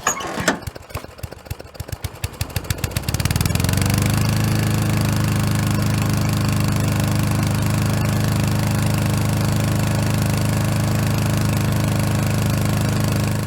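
An engine firing, its beats quickening over the first few seconds until it settles into a steady, even run. The run fades out near the end.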